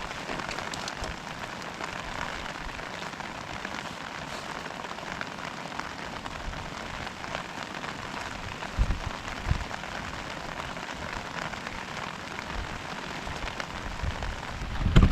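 Heavy rain falling steadily, many fine drop impacts over a constant hiss. About nine seconds in there are two brief low thumps.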